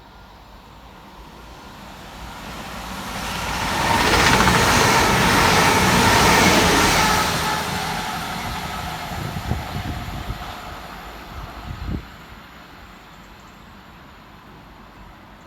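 A CrossCountry Class 220 Voyager diesel multiple unit passing fast through the station. Its underfloor engines and wheels build up over about four seconds, stay loud for a few seconds, then die away, with a few clicks and one sharp knock as it fades.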